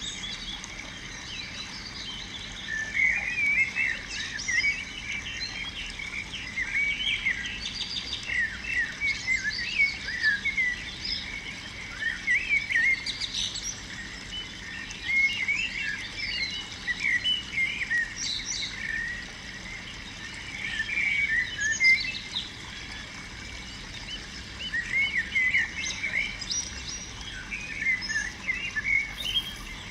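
Small birds chirping and calling repeatedly in quick, high-pitched bursts, with short lulls between clusters, over a faint steady outdoor hiss.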